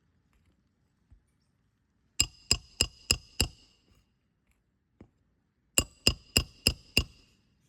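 Roofing hammer striking a metal roof snake to drive nails back under a 3-tab shingle: two runs of five quick, ringing metallic blows, about three a second, with a short pause between the runs.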